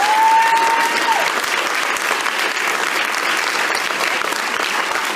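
Audience applauding at the end of an a cappella song. A single long high note rings over the clapping and ends about a second in.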